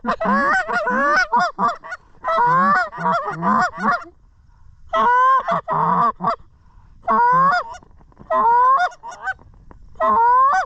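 Geese honking in about six rapid bursts of a second or two each, with short gaps between.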